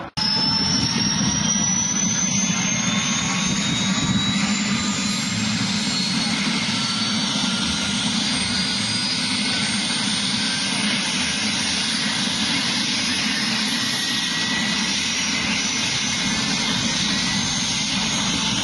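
Helicopter running close by: a high whine rises in pitch over the first few seconds and then holds steady, over a steady rotor and engine rumble.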